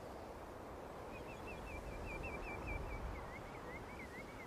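A small bird singing two runs of short repeated notes, about four or five a second, starting about a second in, the second run a little lower in pitch, over a faint low steady outdoor rumble.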